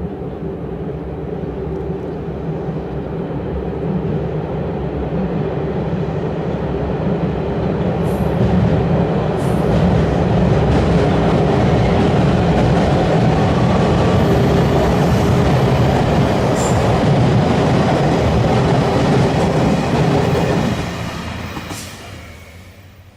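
A train crossing a railway bridge: its rumble builds over about ten seconds, holds loud with a few sharp clicks, then fades quickly near the end.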